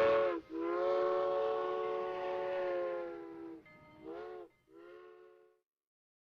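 Train horn sounding a chord: a short blast, a long blast of about three seconds, then two short blasts, each dipping in pitch as it ends.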